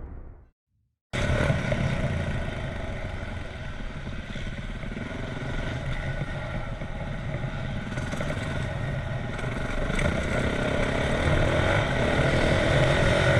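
Motocross bike engine, a 2010 Yamaha YZ450F four-stroke single, running after a brief silence about a second in. Its note holds fairly steady, dips a little, then builds louder toward the end.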